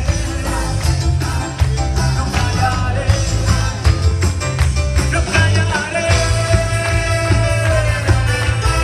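A band playing upbeat rock-Latin music, with heavy bass and a steady drum beat. A long held note comes in about six seconds in.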